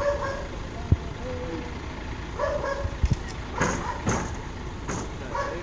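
A vehicle engine runs steadily with a low rumble, with two sharp knocks about one and three seconds in and a few lighter taps near the end.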